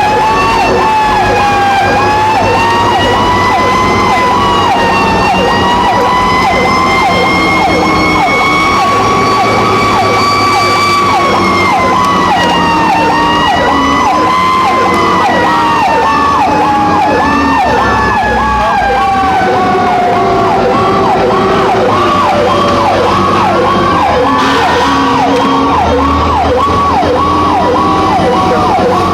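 Fire truck sirens on an emergency response: a slow wail rising and falling in pitch together with a fast repeating yelp of about two to three cycles a second, over the low steady note of the truck's engine.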